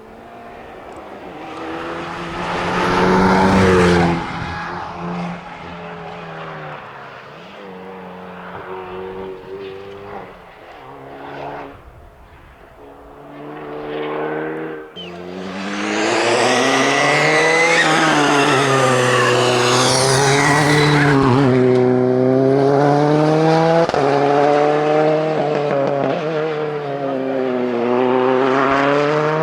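Rally cars on a tarmac stage. First a Hyundai i30 N3 rally car's engine revs up and down through gear changes. About halfway in, a Skoda Fabia R5 rally car takes over, its engine running loud and hard, pitch rising and falling through the gears, with a brief tyre squeal.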